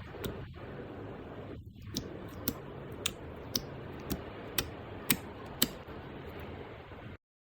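Slime being pressed and worked, giving a run of sharp clicking pops about twice a second over a steady hiss; the sound cuts off abruptly near the end.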